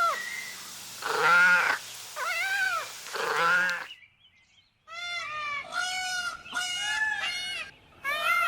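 A cat meowing about four times over a low steady hum. After a short break the sound changes to a quick run of short, high chirping calls.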